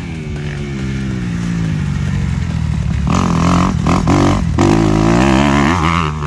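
Motocross bikes on track, engines revving and rising in pitch, getting louder about halfway through, with quick throttle chops or gear shifts near the middle.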